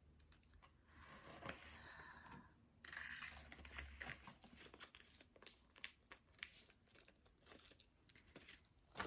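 Faint rustling and tearing of packaging being handled and unwrapped, in two longer stretches during the first half, followed by scattered small clicks and taps.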